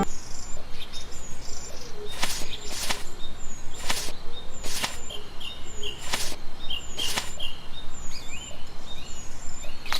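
Small birds chirping in short calls, with about six sharp clicks or taps in loose pairs over the steady background noise.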